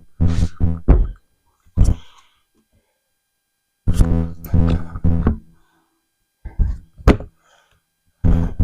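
A plastic storage container being shoved and set into place: several separate scraping groans and thunks, with silent gaps between them.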